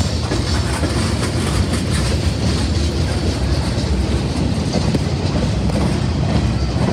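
CSX freight cars, tank cars and boxcars, rolling slowly past close by: a steady, deep rolling noise of steel wheels on the rails, the train slowing down.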